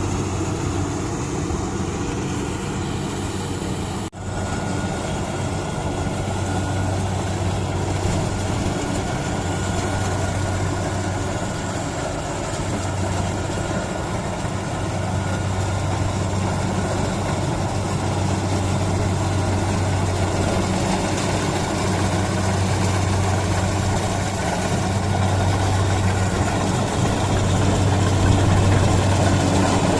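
Kubota combine harvester's diesel engine running steadily with a low hum, with a brief drop about four seconds in and a slight rise in loudness near the end.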